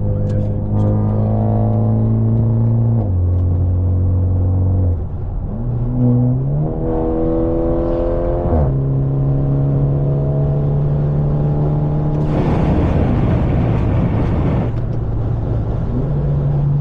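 Straight-piped, catless exhaust of a BMW 530 under way: the engine drones steadily, dips in pitch about three seconds in, then climbs sharply under acceleration before dropping at an upshift and settling into a steady cruise. A rushing noise swells in for a couple of seconds near the end.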